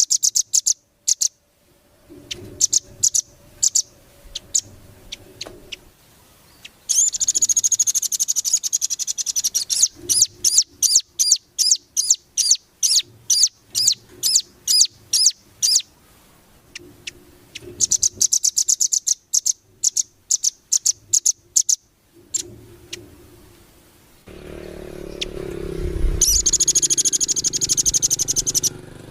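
Small songbird singing in sharp, high-pitched chirps and fast trills, in bursts separated by short pauses. Near the end a low rumbling noise comes in under the song.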